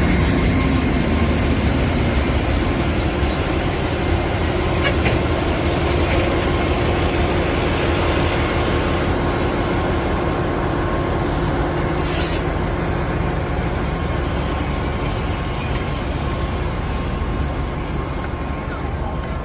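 Local passenger train running with a steady rumble that slowly grows quieter, with a short high hiss about eleven to twelve seconds in.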